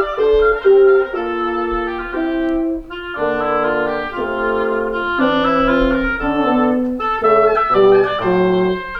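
Woodwind quintet of flute, oboe, clarinet, bassoon and horn playing a lively classical piece, several lines moving together in short phrases.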